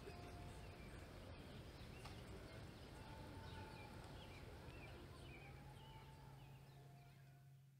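Faint open-air ambience with birds chirping now and then. A low steady hum comes in about halfway through, and the sound fades out near the end.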